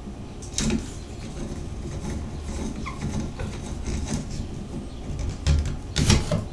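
Clicks and knocks of hands and a tool working on a Moen shower valve as its screw is put back in, with a sharper click just after the start and another about six seconds in.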